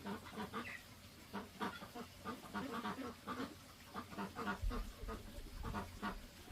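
Farm poultry calling: many short, repeated calls, with a brief low rumble about two-thirds of the way through.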